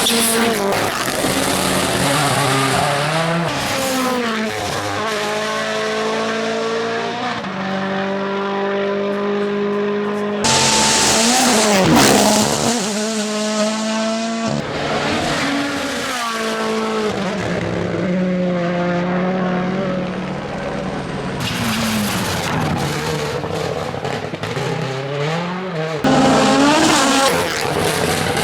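WRC rally cars at speed, their turbocharged four-cylinder engines revving up and dropping back through gear changes as they pass one after another. The sound cuts abruptly from one car to the next several times.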